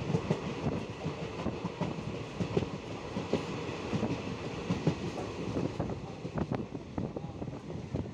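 Kanchan Kanya Express passenger train running along the track: a steady rumble of wheels on rail with frequent, irregular clicks and rattles from the coach.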